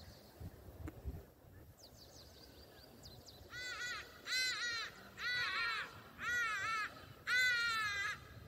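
A bird calling loudly five times in a row, each call a quick run of rising-and-falling notes. Fainter high chirps of smaller birds come before it.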